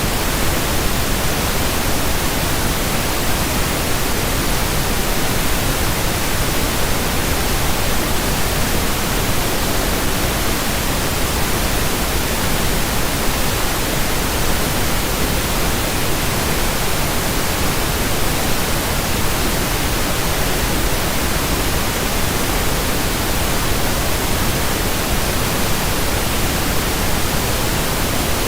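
Steady pink noise: an even, unchanging hiss with no breaks.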